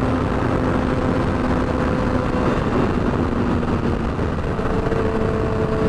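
Yamaha R6 motorcycle's inline-four engine running at speed through a shorty exhaust, under heavy wind rush on the rider's microphone; the engine note steps up in pitch about four and a half seconds in.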